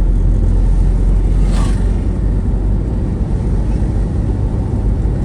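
Steady low rumble of a moving vehicle on the road, road and wind noise heavy in the bass.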